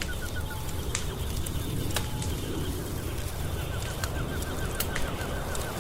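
Wood fire crackling, with scattered sharp pops over a steady low rumble. A rapid run of short, high chirps, about six a second, sounds at the very start and again from about four seconds in.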